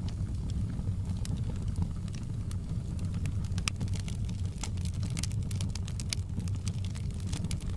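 Wood fire burning in a fireplace: many irregular sharp crackles and pops over a steady low rumble.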